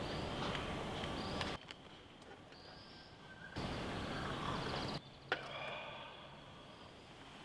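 Outdoor forest ambience with small birds chirping and whistling over a steady background hiss that drops and returns abruptly several times as the shots change. A single sharp click about five seconds in.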